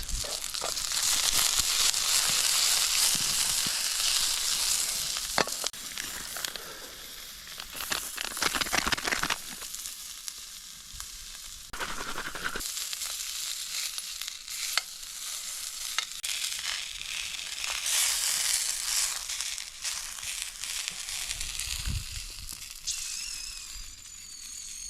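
Food sizzling in a pan over a small wood stove: a steady frying hiss with scattered pops. The hiss swells loudest in the first few seconds and again about three-quarters of the way through.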